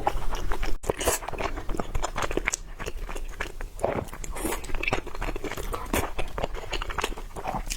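Close-miked chewing and biting of food, with a rapid, irregular run of crunchy clicks and crackles.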